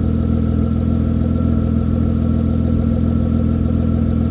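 Honda Accord V6 engine idling steadily, with a faint steady high whine above the idle.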